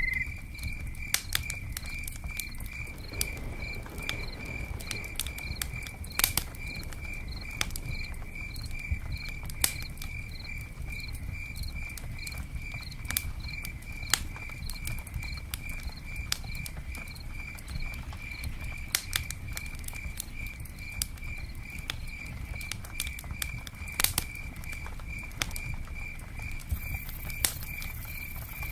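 Campfire crackling with scattered sharp pops and raindrops pattering, over a steady low rumble, while a cricket chirps in an even, rapid pulse.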